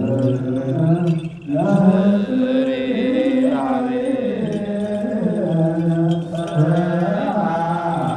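Ethiopian Orthodox liturgical chant: low male voices chanting a slow, drawn-out melody, with a short break for breath about a second and a half in.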